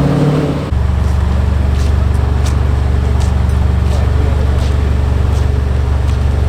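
A car engine idling close by with a loud, steady, deep rumble that comes in abruptly about a second in, with a few faint clicks over it.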